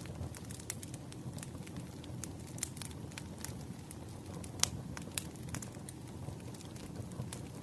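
Campfire crackling: a steady low noise of the burning fire with frequent sharp pops and snaps scattered irregularly, one louder pop about four and a half seconds in.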